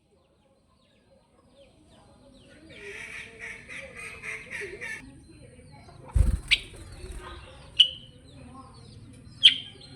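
Kutilang sutra songbird singing: a fast run of repeated chattering notes about three seconds in, then single sharp high notes spaced a second or more apart. A low thump comes about six seconds in.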